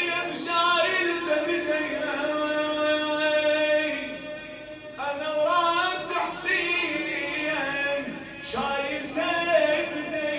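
A male radood chanting a Shia mourning lament in long, drawn-out melodic phrases, with no instruments, breaking for breath twice.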